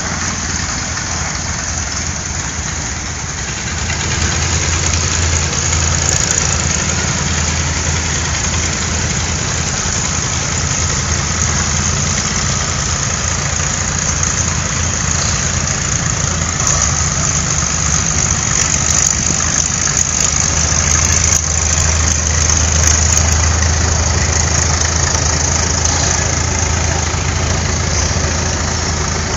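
Antique farm tractor engine running steadily at low speed, getting louder about four seconds in.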